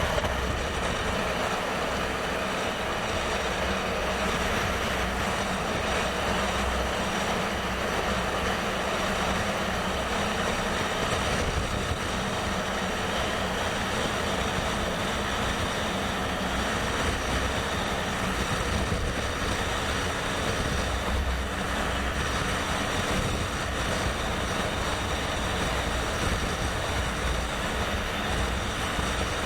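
Motorcycle running steadily on the road, its engine mixed with a constant rush of wind and tyre noise.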